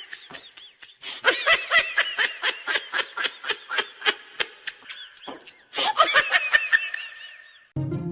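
High-pitched laughter in quick, repeated ha-ha pulses. It comes in bouts, with short breaks about a second in and about five and a half seconds in.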